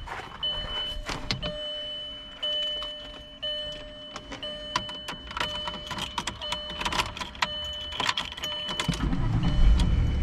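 A repeating electronic chime sounds, with scattered clicks and knocks, then the Volkswagen Eurovan's VR6 engine starts about nine seconds in and runs with a strong low rumble.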